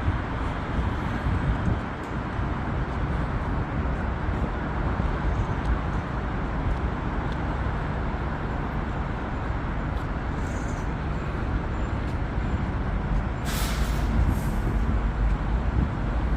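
Steady engine rumble of heavy machinery, with a short hiss of released air about thirteen and a half seconds in.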